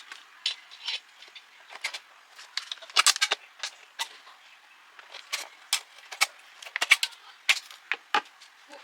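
Irregular light clicks and taps of small hard craft parts being handled and set down, with a cluster of quick clicks about three seconds in.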